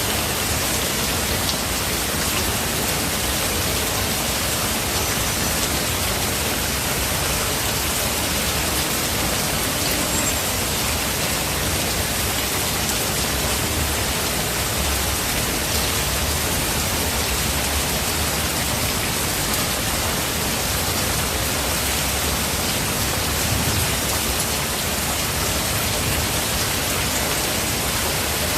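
Steady rain falling in a forest, an even, unbroken hiss of drops.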